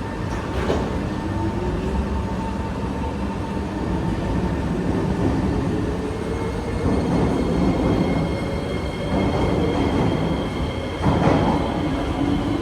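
SMRT C151B metro train moving off, its traction motors whining and rising slowly in pitch as it gathers speed over the rumble of the wheels on the rails. There is a sharp clatter about a second in and a louder one near the end.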